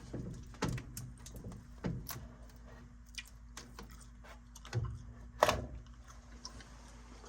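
Intermittent metallic clinks and knocks of furnace panels, parts and screws being handled during disassembly, the loudest about five and a half seconds in, over a steady low hum.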